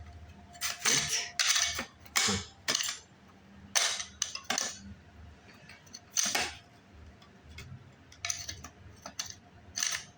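Parts of a light fixture being slid and fitted into its housing: a series of sharp clicks and clattering knocks, about eight in all, with quieter handling noise between them.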